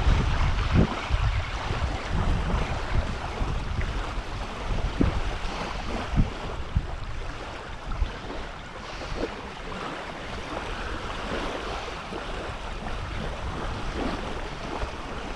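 Gusty wind buffeting the microphone over small waves lapping at the shore. The gusts are strongest in the first few seconds and ease off after that.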